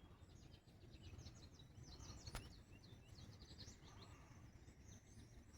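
Faint chirping of small birds, many short quick notes, over a low rumble of outdoor background noise, with one sharp click a little over two seconds in.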